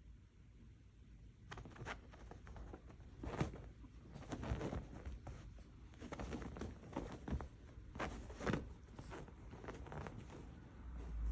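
Irregular soft rustles and light clicks starting about a second and a half in, as of a dog moving about with a plush stuffed toy on the floor.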